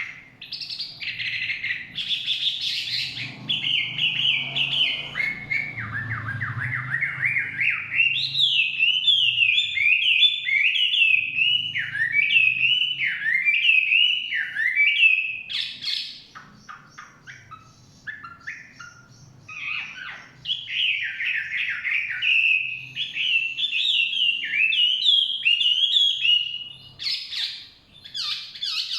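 Chinese hwamei (melodious laughingthrush) singing a long, varied song of quick, repeated, slurred whistled phrases, with a pause of a few seconds just past the middle.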